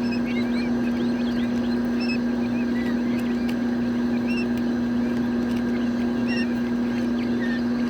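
A steady, loud low machine hum runs throughout. Over it, many young chicks cheep in short, high peeps, several a second.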